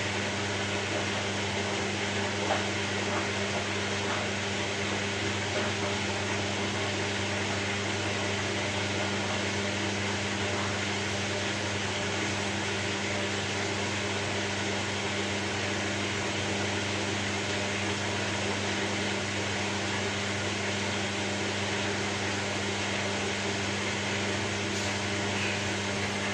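Steady white noise: an even rushing hiss with a constant low motor-like hum beneath it.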